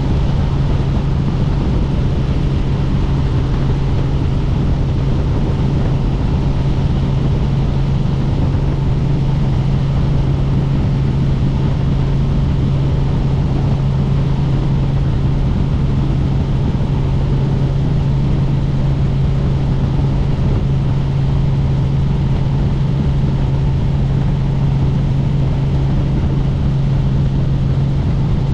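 Helicopter in steady flight: a constant loud drone of rotor and engine noise with a strong low hum. It does not change.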